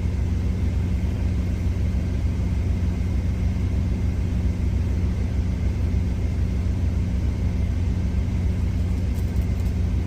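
Steady low drone of an idling truck engine, even and unchanging.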